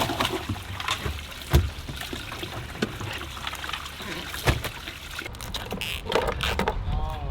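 Water trickling and splashing, with a couple of sharp knocks.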